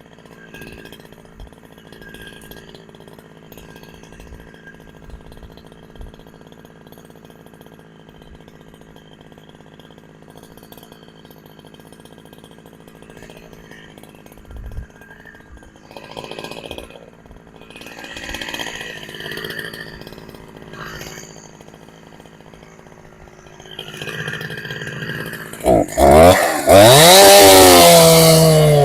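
Two-stroke chainsaw idling faintly, then revved hard near the end, its pitch climbing and swinging up and down with the throttle.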